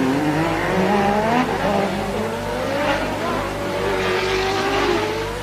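1988-era Formula One race car engines accelerating, their pitch rising in sweeps and dropping back at gear changes, with more than one engine heard at once.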